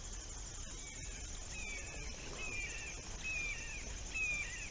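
A bird calling a series of short, high, downward-slurred notes, starting about a second and a half in and repeating roughly once a second, over a steady high-pitched insect chorus.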